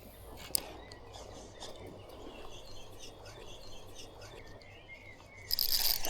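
Quiet riverside background with faint high chirps and a single click about half a second in. About five and a half seconds in, loud, high insect chirring starts abruptly and keeps going.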